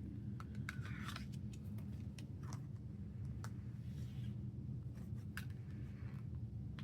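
Scattered small clicks and faint rustles of an album's CD and paper inserts being handled, over a steady low hum.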